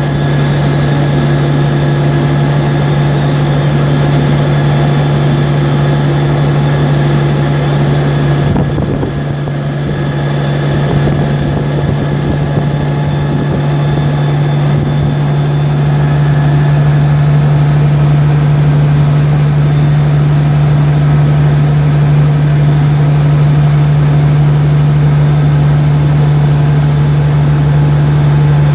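Steady drone of a vehicle driving on the highway, a constant low hum with road noise, dipping slightly about a third of the way in and a little louder in the second half.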